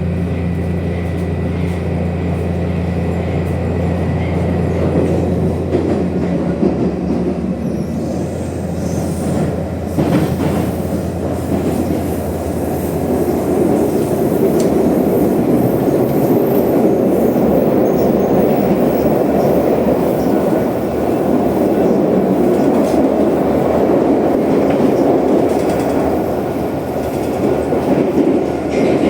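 Moscow metro train heard from inside the car as it runs through the tunnel: a steady low hum for the first several seconds, then the rumble and clatter of wheels on rail that grows louder from about ten seconds in.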